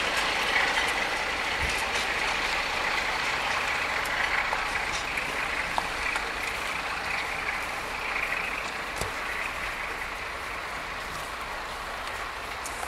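Diesel-hauled passenger train pulling away, its running noise with a steady high whine slowly fading.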